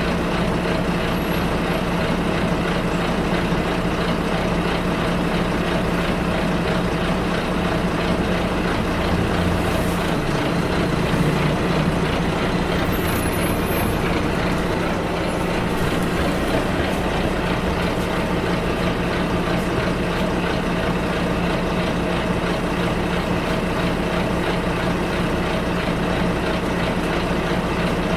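Bus ride heard from inside: a steady low engine hum under constant road noise. About ten seconds in, the low engine tone briefly shifts and rises slightly.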